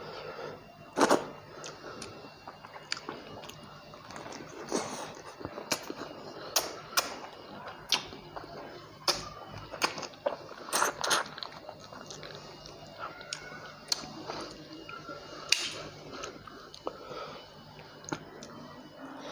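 Close-miked eating: a person chewing and biting a meal of rice and fried rohu fish curry, with wet chewing sounds and irregular sharp mouth smacks and clicks.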